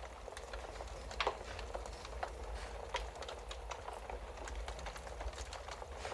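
Wood fire crackling in a fireplace: irregular sharp pops and snaps over a steady low hiss and rumble of burning logs, with one louder pop about a second in.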